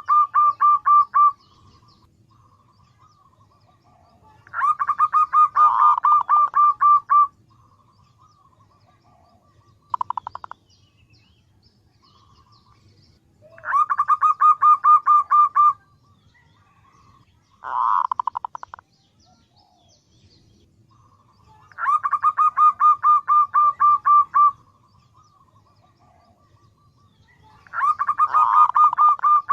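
Female zebra dove (perkutut) calling to draw males. It gives a fast run of short repeated notes lasting two to three seconds, and repeats it about every four seconds, with two much shorter runs among them.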